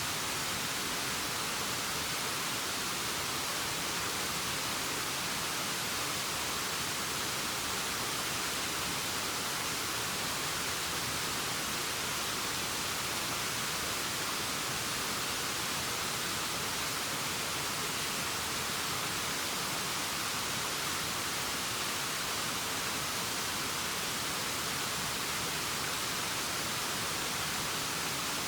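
Waterfall sound: a steady, even rushing hiss, weighted toward the high end with little low rumble, that does not change.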